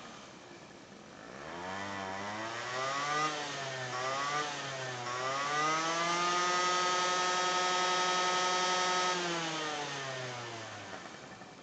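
Honda Live Dio ZX scooter's 50 cc two-stroke engine being revved: a few short throttle blips rising and falling, then a climb to high revs held steady for a few seconds before it winds back down and fades out near the end.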